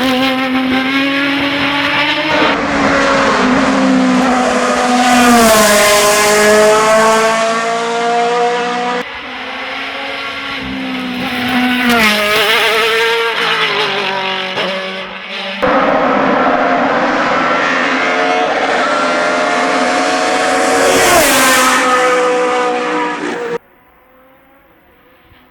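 Hillclimb race cars at full throttle, high-revving engines climbing in pitch and dropping at gear changes and as they pass, in several short clips that cut abruptly from one car to the next. Near the end the sound drops suddenly to a faint, distant engine.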